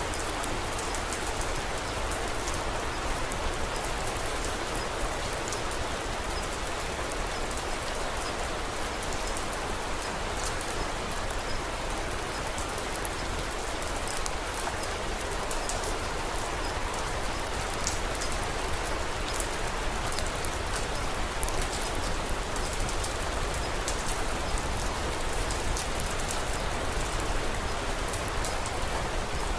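Steady rain falling, with scattered sharp crackles from a wood fire in a fireplace.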